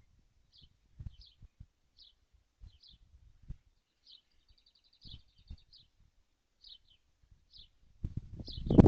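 Kestrel calls: a string of short high chirps about every half second, with a quick rapid trill in the middle, over soft low knocks. Near the end a loud low rushing thump rises.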